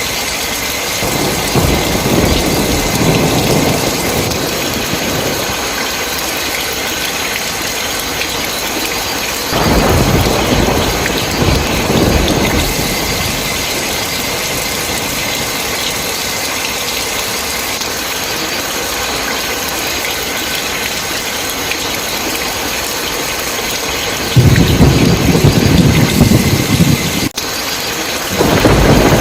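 Steady heavy rain with thunder rolling in several times, low rumbles swelling and fading; the loudest roll starts suddenly past the middle and is followed by another near the end.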